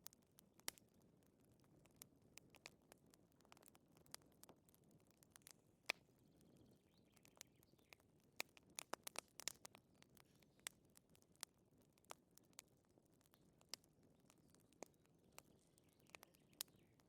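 Faint wood fire crackling: irregular sharp pops and snaps, with a quick run of them about nine seconds in.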